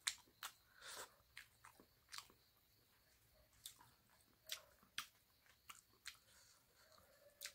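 Chewing a mouthful of pork and rice: soft, wet mouth clicks and smacks at irregular intervals.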